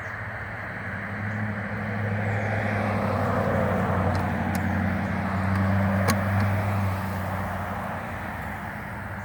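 A dense hum of thousands of honeybees buzzing as they are poured into a new hive, swelling through the middle and easing off near the end. A single sharp knock comes about six seconds in.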